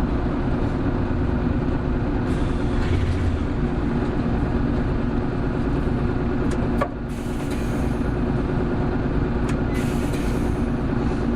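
Diesel-hybrid city bus engine (Hino Blue Ribbon City Hybrid, BJG-HU8JLFP) pulling hard under acceleration. About seven seconds in there is a click and the sound drops sharply for a moment, then builds again, with short hisses soon after.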